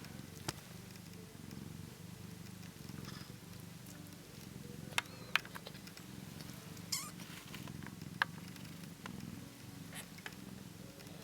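Cat purring steadily, a low continuous flutter, with a few sharp clicks over it.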